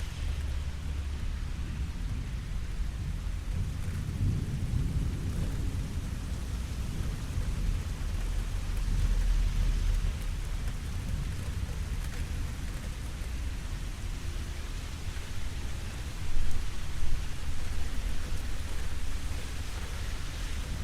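Steady rain falling, with low rolling thunder underneath that swells in the first half, and two sudden louder bursts about three-quarters of the way through.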